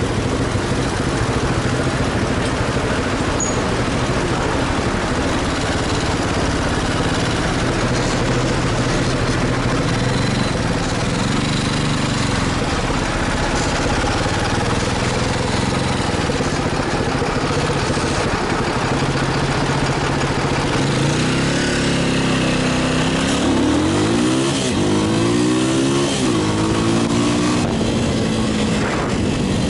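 Motorcycle engine running at low speed under a steady rushing noise, with the revs rising and falling briefly about a third of the way in and several times in the second half.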